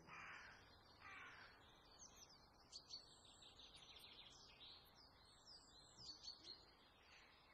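Faint outdoor birdsong: two rough calls in the first second and a half, then a run of quick high chirps from small birds.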